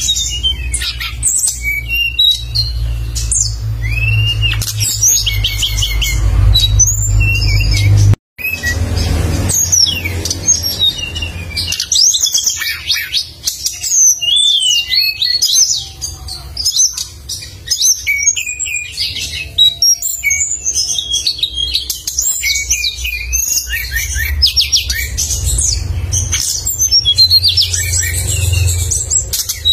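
A songbird singing actively and loudly in a continuous run of quick, sharp chirps, trills and whistled phrases, over a steady low rumble. The sound cuts out briefly about eight seconds in.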